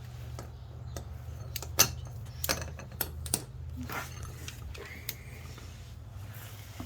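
Irregular metallic clicks and clinks of a socket wrench being fitted and worked on rusty bumper-bracket bolts, the sharpest knock about two seconds in, over a steady low hum.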